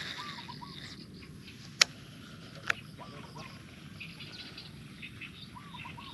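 Small birds calling, short hooked notes in little groups of about three that come back several times, over a faint high chirring of insects. Two sharp clicks about two and three seconds in are the loudest sounds.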